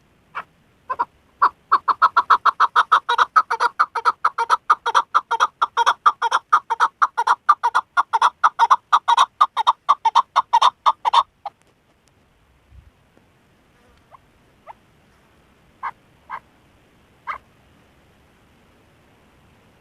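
Chukar partridge calling: a long, rapid run of chuk notes, several a second for about ten seconds, that stops abruptly. A few fainter single notes follow.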